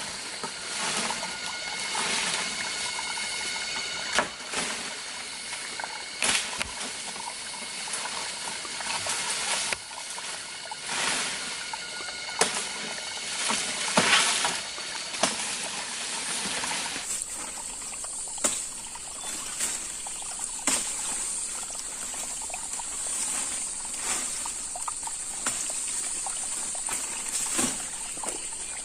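Water trickling and splashing, with scattered knocks and clicks. About two-thirds of the way in the sound changes abruptly, and a steady high-pitched hum runs under the trickle.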